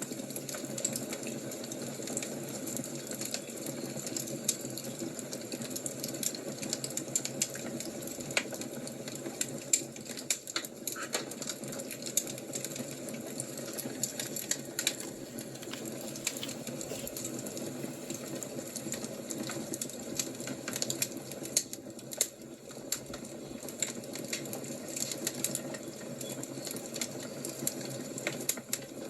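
Wood fire crackling: a steady stream of small, irregular pops and snaps over a soft hiss.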